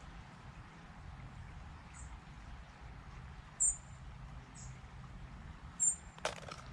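A small bird giving short, very high chirps every second or so, some as quick double or triple notes, over a low steady outdoor rumble. A brief sharp clatter of handling comes near the end.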